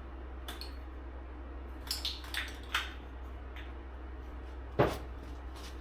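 Small hard objects being handled: a few light clicks and clinks in quick succession, then one sharper knock near the end, over a steady low hum.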